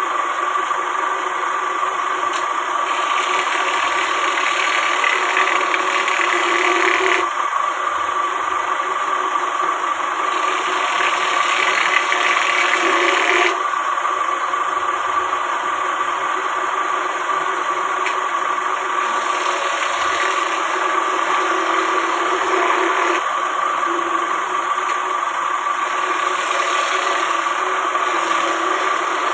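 A power tool motor running steadily with a constant whine. A rougher hiss swells in stretches, from about 3 to 7 seconds and from 10 to 13 seconds in.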